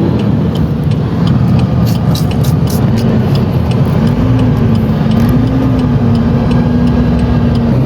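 Engine and road noise of a moving vehicle heard from inside it: a steady low rumble with a held hum that rises slightly about four seconds in and settles again, and faint scattered ticks.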